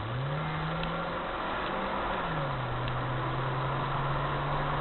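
Car engine pulling with steady road noise heard from inside the cabin; its note rises near the start, then steps down about two seconds in and holds steady.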